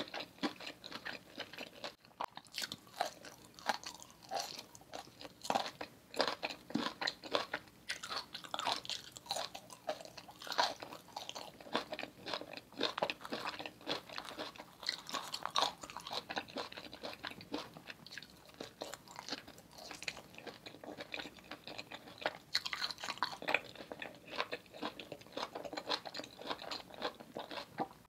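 Close-miked mouth sounds of chewing Parmesan-roasted vegetables (a roasted green onion, then a roasted mini pepper): a dense, irregular run of moist crunches and smacking clicks with a short lull about two seconds in.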